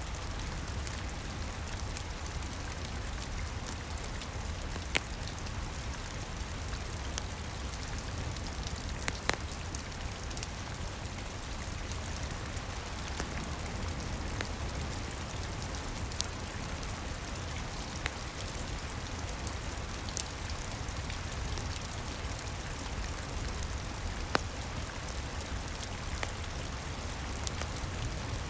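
Steady rain falling on a roof, with a low rumble underneath and a handful of sharp, isolated pops from a crackling wood fire.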